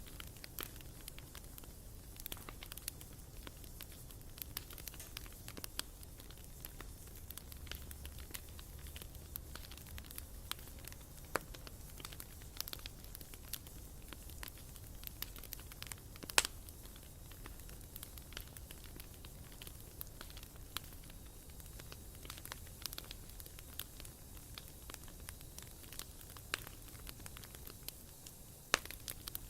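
Bonfire burning with scattered crackles and snaps over a low rumble, with a sharper pop about 16 seconds in and another near the end.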